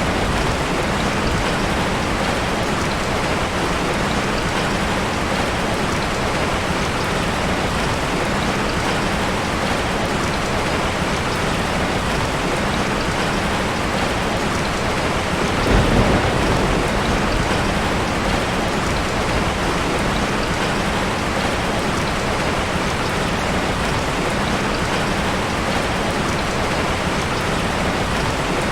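Heavy rain drumming steadily on a tin roof, with one brief louder swell about halfway through.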